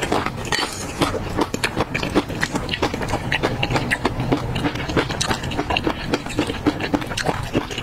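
Close-up chewing of peanuts in chili oil sauce: a dense, irregular run of crunchy, wet crackles and mouth sounds.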